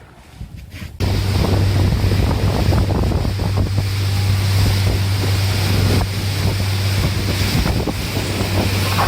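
Motorboat engine running steadily with a constant low hum, under heavy wind rush on the microphone and water noise; it starts abruptly about a second in.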